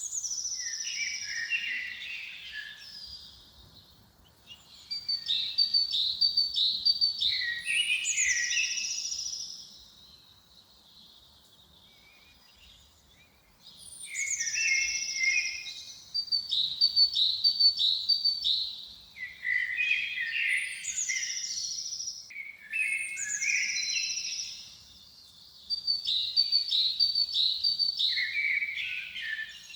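Songbird singing in repeated phrases of high falling whistles, lower chattering notes and quick runs of repeated notes. Each phrase lasts a few seconds, with a longer pause about a third of the way through.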